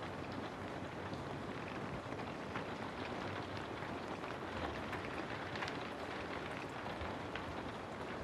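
Steady rain falling, a constant hiss with scattered sharp drop ticks, used as background white noise.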